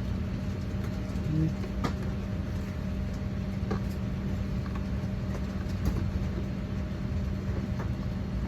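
Steady drone of an Airbus A350-900 cabin's air conditioning before pushback, with a constant low hum and a few faint clicks.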